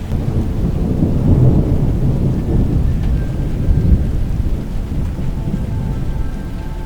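Deep rolling rumble of thunder that builds about a second in, is loudest near four seconds and then eases off.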